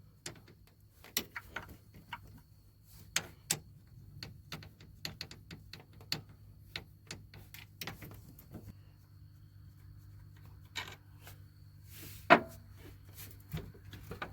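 Hand tools clicking and knocking against metal engine-bay fittings in an irregular run of sharp taps, with one louder clank about twelve seconds in. No hiss is heard from the disconnected AC lines.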